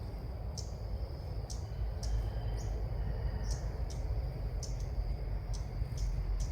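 Sooty-headed bulbul calling: short, sharp high chirps repeated about every half second, over a steady low rumble.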